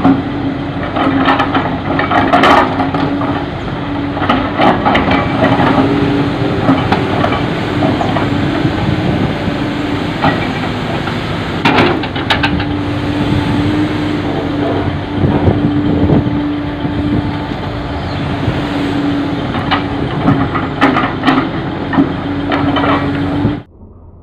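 Heavy diesel machinery running with a steady drone, with irregular knocks and clatter throughout. The sound cuts off abruptly near the end.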